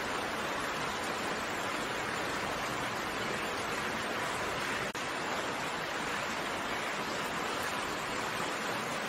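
Steady rain, an even hiss with no separate drops standing out, broken by a brief dip in level about five seconds in.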